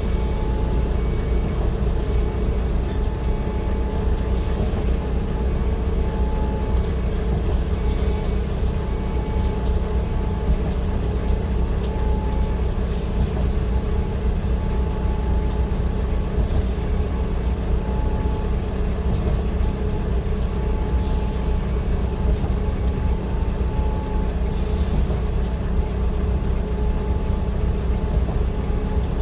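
A large vehicle running steadily in motion, a continuous low rumble with a short high hiss every few seconds.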